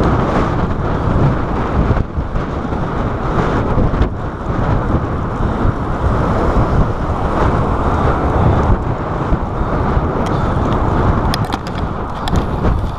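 Wind buffeting a chest-mounted GoPro's microphone on a moving bicycle: a steady, loud rush. A few faint clicks come near the end.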